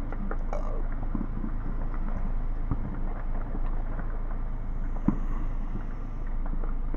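A few faint, scattered firework pops, one sharper about five seconds in, over a steady low rumble.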